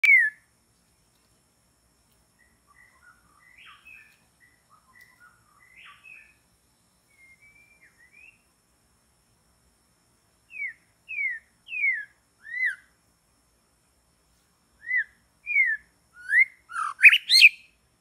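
Bird calls: a few soft chirps, then loud, short, down-slurred whistles in two runs of about four notes each, the second run ending in a quick jumble of higher notes.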